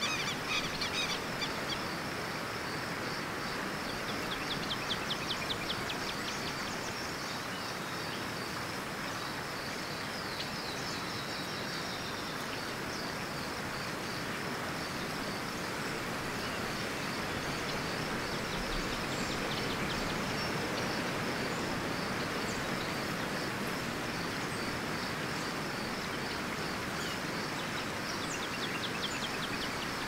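Outdoor nature ambience: a steady even rush of background noise under a faint continuous high pulsing, with birds chirping in short rapid series, once about five seconds in and again near the end.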